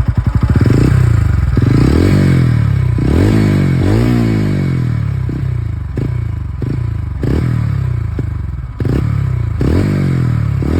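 TVS Ronin motorcycle's single-cylinder engine and exhaust, revved in repeated quick throttle blips, the revs jumping up and falling back each time, roughly once a second.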